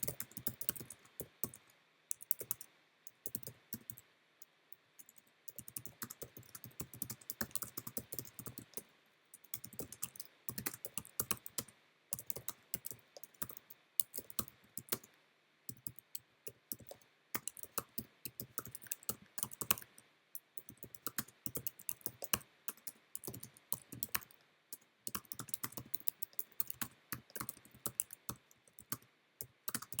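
Typing on a computer keyboard: quick runs of key clicks in bursts, broken by short pauses of a second or so.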